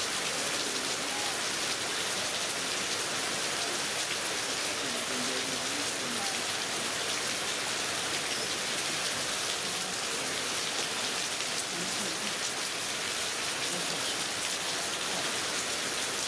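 Heavy rain falling steadily: a continuous even hiss of drops hitting surfaces.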